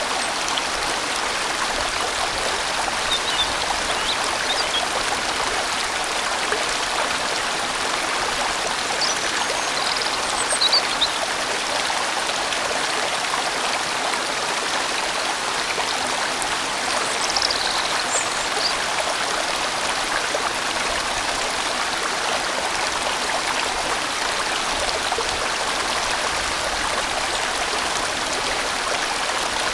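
Large, winding valley stream flowing steadily.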